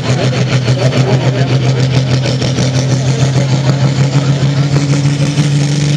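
Dodge pulling truck's 5.9-litre Cummins turbo-diesel straight-six running at the line, loud and steady, its pitch creeping slowly upward as the revs are brought up.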